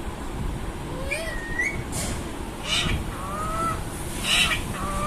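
Pet parrot calling: short harsh squawks twice, with a few short rising whistled notes between them.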